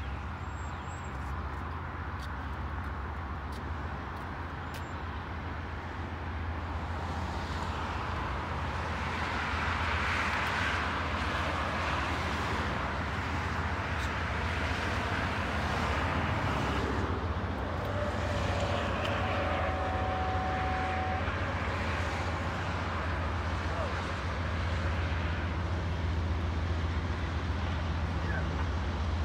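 Norfolk Southern freight train led by GE AC44C6M diesel locomotives approaching: a steady low diesel engine rumble with wheel and rail noise that grows louder as the train draws nearer.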